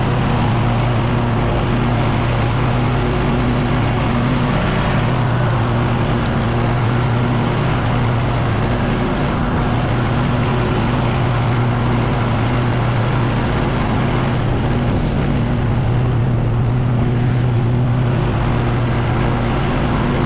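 Echo PB-9010T backpack leaf blower's two-stroke engine running steadily at a constant high speed, with the rush of the blown air.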